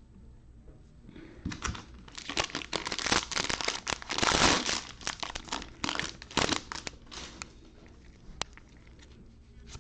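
Wrapper of a trading card pack being torn open and crumpled: a run of crinkling and tearing lasting about six seconds, loudest in the middle, then a single click near the end.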